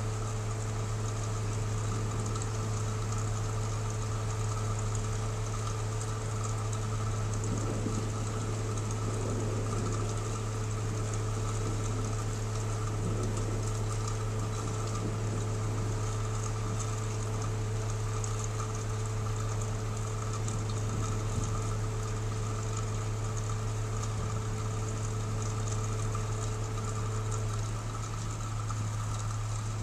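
Steady low hum of a car engine idling, unchanging throughout, with a faint thin whine that cuts off near the end.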